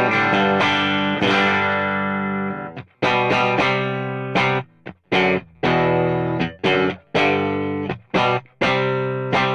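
Electric guitar, a Stratocaster on its bridge pickup through a modelled Matchless DC30 amp on its EF86 channel, playing the unboosted starting tone dry with the slapback off. Chords are strummed and left to ring, mixed with short stabbed chords that are cut off sharply.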